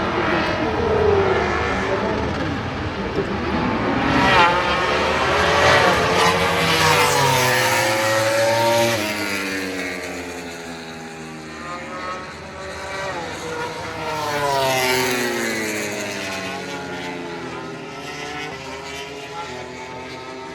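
MotoGP racing motorcycles running at high revs, several bikes passing in turn, engine pitch climbing through the gears and falling away as they go by. It is loudest a few seconds in and again about two-thirds of the way through.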